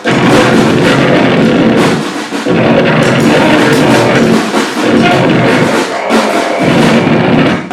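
Loud live noise-grind improvisation: a dense wall of distorted noise with a drum kit pounding through it, the low end dropping out briefly a few times.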